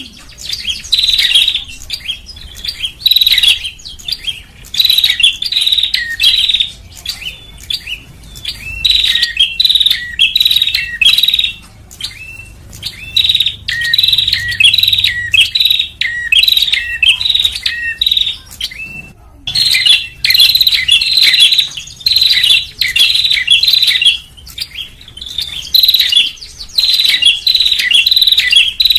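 Prenjak (prinia) calls from a bird-luring recording: loud, rapid bursts of sharp chirps, one burst about every second, with a brief break about 19 seconds in.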